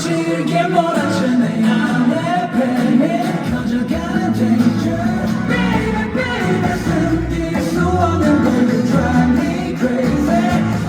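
Live pop-rock song with a male lead vocal, amplified through a concert hall's sound system. The bass comes in about three and a half seconds in and the song runs on at full level.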